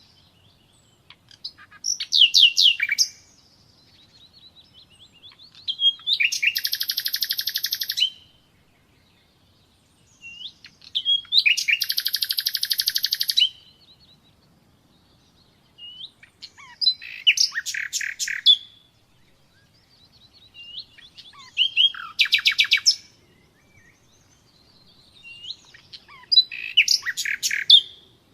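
Common nightingale singing: six separate phrases of fast repeated notes and rattling trills, each about two to three seconds long, with pauses of a couple of seconds between them.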